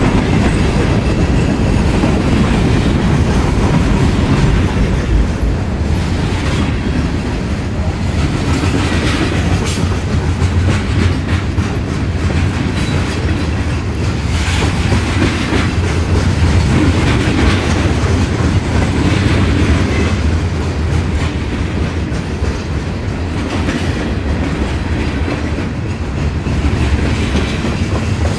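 Freight train boxcars and covered hopper cars rolling past close by: a loud, steady rumble of steel wheels on rail with a continuous clickety-clack of wheel clatter.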